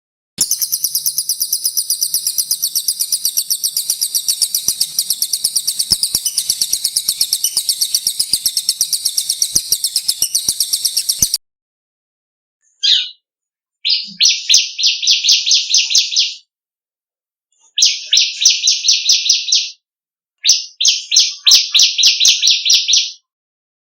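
Small songbird song from a recording: a long, very fast trill of high repeated notes lasting about eleven seconds. After a short gap come three shorter bursts of rapid, slightly lower chattering notes.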